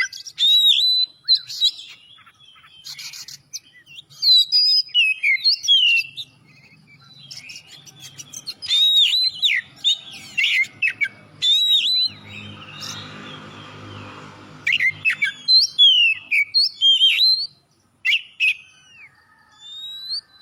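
Oriental magpie-robin (kacer) singing a loud, varied song of quick whistled phrases and sliding chirps, broken by short pauses. For about three seconds in the middle, a low hum with a hiss sits under quieter song.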